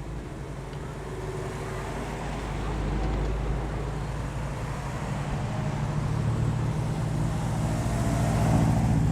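A car's engine running as the car approaches, getting steadily louder, with a low rumble and a steady engine note at its loudest near the end.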